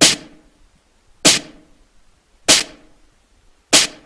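Snare drum hit sampled from a drum loop, played back four times about a second and a quarter apart, each with a short reverb tail. It is being auditioned through a low-shelf EQ that cuts some of the bottom end.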